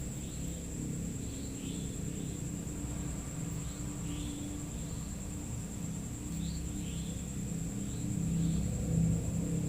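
Night ambience: a steady high-pitched trill of night insects, with faint short chirps every second or so, over a continuous low rumble that grows a little louder near the end.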